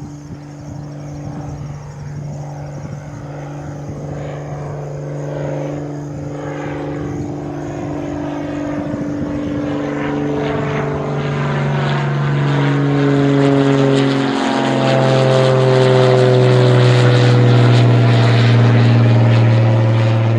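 Aircraft engine noise growing steadily louder as the plane comes closer, a steady low hum with a sweeping, phasing sound above it that strengthens toward the end.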